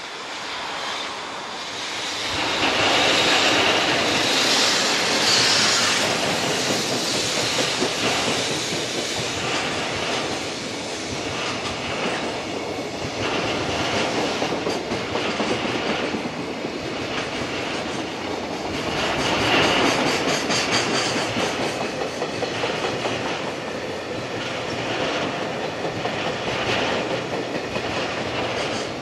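JR Freight EF65 electric locomotive passing close by at the head of a long container freight train, loudest a few seconds in as it goes past. The steady clatter of the container wagons' wheels on the rails follows.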